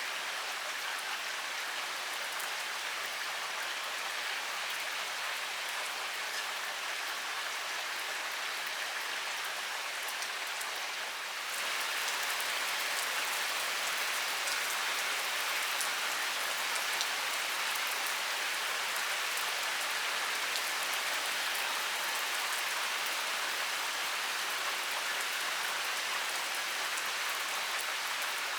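Heavy rain pouring steadily, a dense hiss with fine ticks of individual drops, growing a little louder about eleven seconds in.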